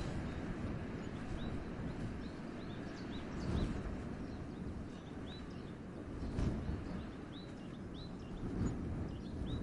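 Wind gusting through a winter forest, swelling into stronger gusts about three and a half and six and a half seconds in. Over it, a bird gives short high chirps again and again, about one or two a second.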